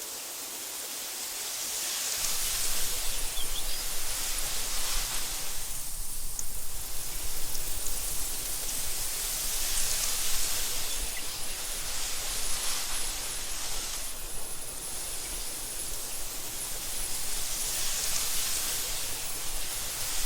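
Wind blowing through meadow grass in slow gusts, swelling and easing every several seconds, with a low rumble underneath from about two seconds in.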